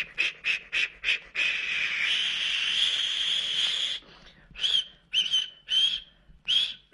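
Steam locomotive sound effect: even chuffs about four a second, then a long steam whistle, then several short whistle toots.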